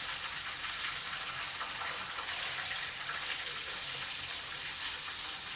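Chicken pieces frying in hot oil: a steady sizzle with scattered small pops, one sharper pop near the middle.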